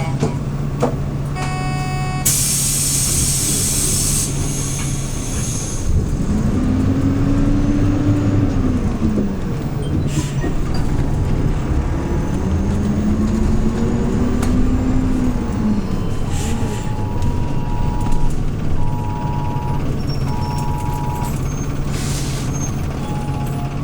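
Hyundai New Super Aero City CNG city bus heard from inside the cabin: the engine idles, a loud air hiss from the pneumatics sounds about two seconds in, then the engine pitch rises and falls twice as the bus pulls away and shifts up.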